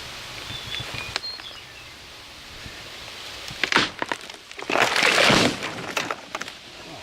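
Wood cracking and breaking: a couple of sharp cracks, then a louder crashing rush of breaking wood and branches just past the middle, trailing off in crackles.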